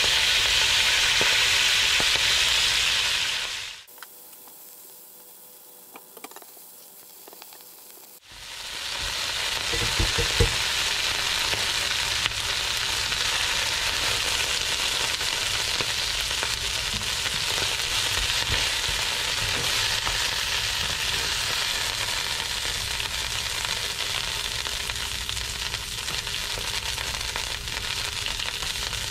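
Fresh spinach sizzling in hot bacon and sausage fat in a cast iron skillet, a steady frying hiss, stirred with metal tongs. The sizzle falls away for about four seconds a few seconds in, then comes back and holds, with a few knocks of the tongs around ten seconds in.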